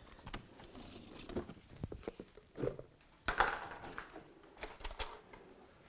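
Kitchen handling noises: scattered light knocks and clicks as a bowl and ingredients are moved about, with a short rustle a little past three seconds.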